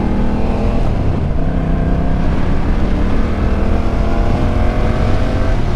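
Motorcycle engine accelerating: its pitch climbs slowly, falls away about a second in, then climbs again from about two seconds and breaks off just before the end, over a heavy low wind rumble on the microphone.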